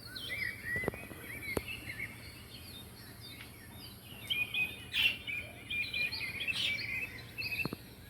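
Small pet birds chirping, a steady chatter of short high chirps that gets busier in the second half, with a few sharp clicks.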